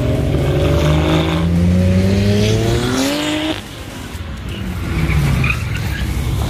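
Car engine accelerating hard, its pitch climbing for about three and a half seconds, then dropping off sharply before it builds again.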